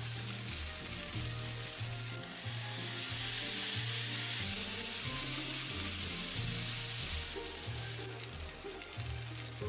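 Fried rice sizzling in a hot non-stick frying pan on a portable gas stove. The sizzle swells louder in the middle and eases off near the end, over background music.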